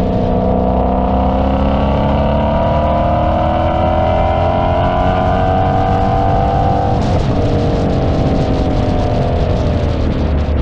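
Car engine pulling under load, its pitch climbing slowly for about seven seconds. Then there is a break and the pitch falls gently, over a steady low rumble.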